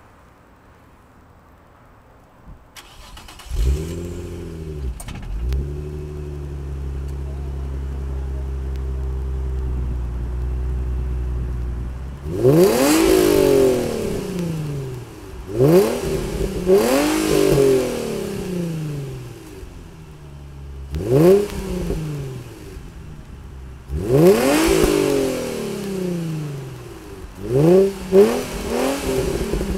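Nissan 350Z's 3.5-litre V6 breathing through a Borla cat-back exhaust, Nismo headers and a Nismo cold-air intake. It starts about three seconds in, flares briefly and settles to a steady idle. From about halfway it is blipped again and again, each rev rising quickly and falling back toward idle.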